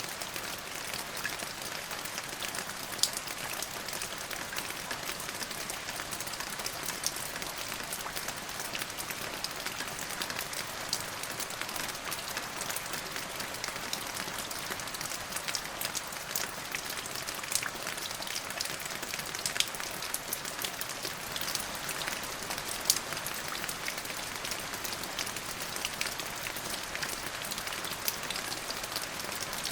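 Steady rain: a dense, even hiss of falling water, with sharp individual drop ticks standing out here and there.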